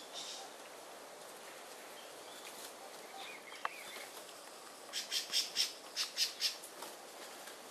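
A bird calling: a quick run of about eight short, sharp, high notes in two groups of four about five seconds in, with a few faint chirps a little before.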